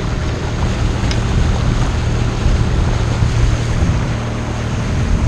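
Wind rushing over the microphone on a small sailboat under way, with water noise and a steady low hum beneath, typical of the boat's small outboard motor running.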